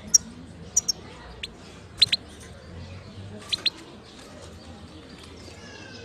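European goldfinch singing: short, sharp high chirps, several in quick pairs, spaced through the first few seconds, then fainter and sparser notes toward the end.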